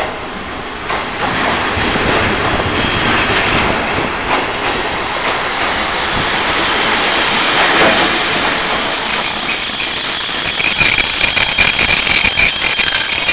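Taiwan Railway parcel train, hauled by an E300-class electric locomotive, rolling along the platform with a broad rumble and a few knocks from the wheels, growing louder as the cars pass. From about two-thirds of the way in, a steady high-pitched wheel and brake squeal joins it as the arriving train slows to a stop.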